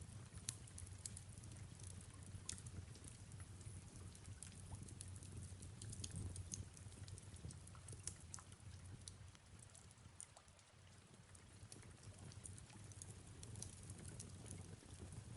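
Faint fireplace crackling, with irregular small pops and snaps, over a soft steady rain hiss and a low rumble.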